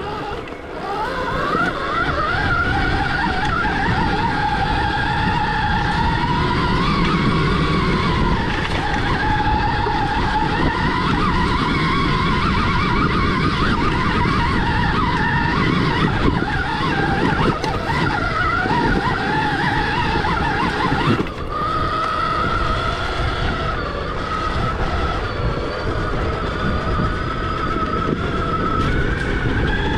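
Stark Varg EX electric dirt bike's motor whining as it is ridden, the pitch rising and falling with speed over a steady low rumble, with a brief drop about two-thirds of the way through.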